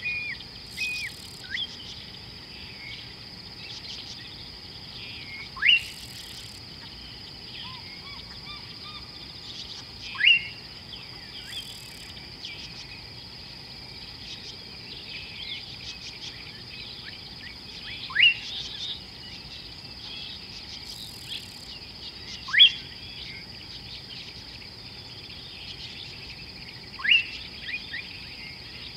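A bird repeating a short call that sweeps sharply upward in pitch, five times about every four to five seconds, with softer chirps of other birds between. A steady high insect drone runs underneath.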